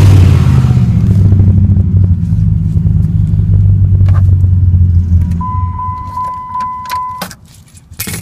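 Dodge Ram SRT-10's V10 engine idling through its titanium exhaust, then switched off about five seconds in. A dashboard warning chime then beeps rapidly for a couple of seconds, and a single knock follows near the end.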